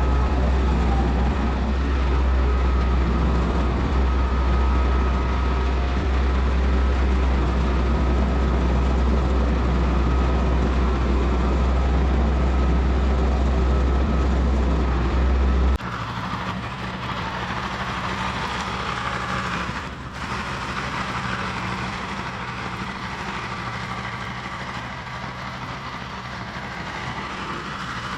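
Diesel engine of a tracked earthmoving machine running steadily under work, with a loud low rumble. About two-thirds of the way through it cuts abruptly to a quieter, steadier engine note.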